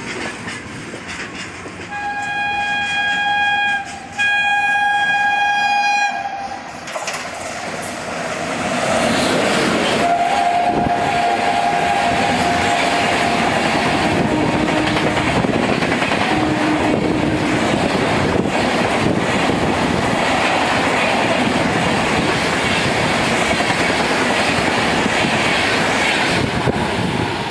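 Two long blasts of a WAP-7 electric locomotive's horn as it approaches. Then an express train passes at high speed, with a loud rush and the rapid clatter of wheels over the rail joints, easing off as the last coach goes by.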